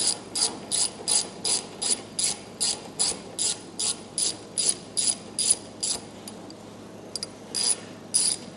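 Hand ratchet wrench clicking in quick, even strokes, about three a second, as a bolt is backed out. The strokes stop about six seconds in, with a couple more near the end.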